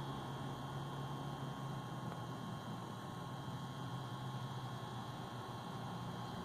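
Steady low electrical hum with an even hiss and a faint thin high tone, unchanging throughout.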